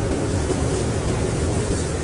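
Blizzard wind blowing steadily, a deep rushing noise with a fainter hiss above it and no gusts or breaks.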